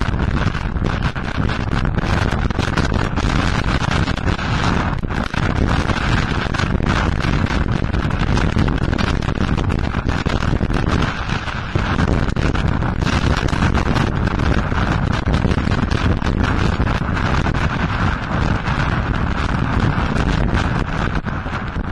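Wind buffeting the microphone over the clatter of a mountain bike going downhill on a rough trail, with frequent sharp knocks from the bike jolting over bumps.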